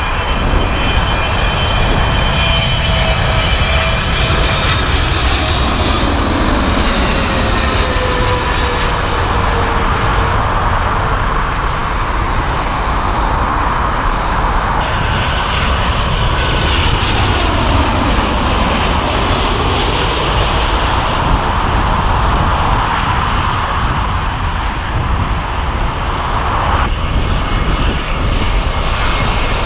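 Jet airliners on final approach passing low overhead with a steady loud engine rumble. The engine whine falls in pitch as each one goes by, at least twice.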